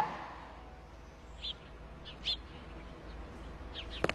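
A few short, high bird chirps, spaced about a second apart, over faint outdoor background noise; a sharp click or knock near the end.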